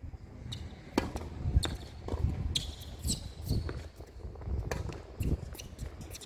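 Tennis ball impacts: a handful of sharp knocks of the ball on racket strings and court, irregularly spaced, the loudest about a second and a half in.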